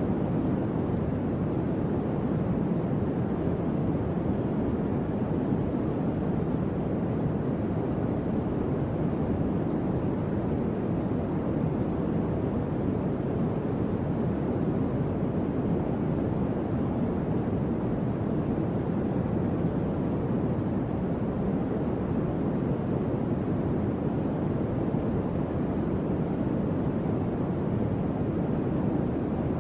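Electric fan running steadily: an even, low airflow whoosh with no clicks or changes.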